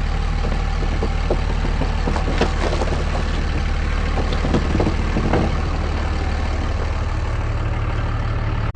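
Cummins diesel engine of a Ram 1500 truck running steadily at low revs while crawling a trail, with scattered light knocks and creaks.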